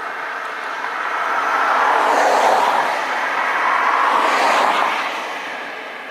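Two vehicles passing one after the other on a rain-wet road. The tyre hiss swells and fades twice, about two seconds apart.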